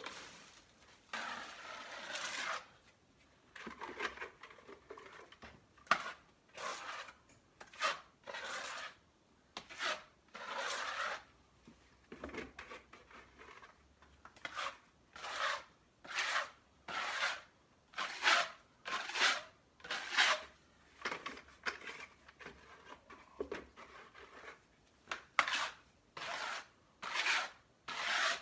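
Hydraulic cement being mixed and worked with a hand tool: repeated short scraping strokes, irregular at first, then about one a second.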